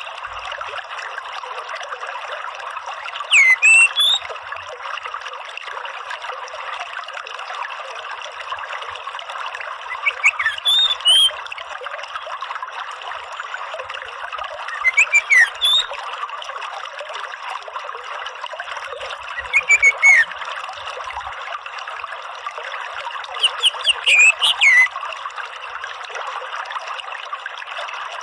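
Orange-headed thrush giving five short whistled phrases of gliding notes, about one every five seconds, over a steady rush of running water.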